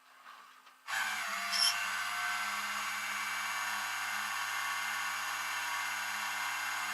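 A motor starts suddenly about a second in and then runs steadily at one constant pitch.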